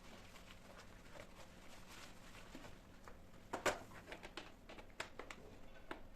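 Quiet room with a few light clicks and taps of household handling, the loudest about three and a half seconds in, followed by several smaller ones.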